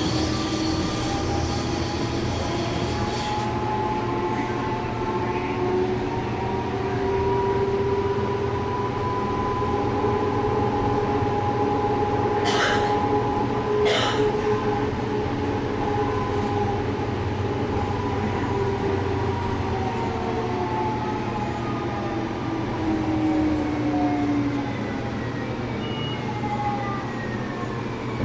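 Ride inside a UTA TRAX light-rail train: steady rumble of the wheels on the rails, with the traction motors' whine rising in pitch as the train speeds up, holding, then falling as it slows near the end. Two sharp clacks come about a second and a half apart around the middle.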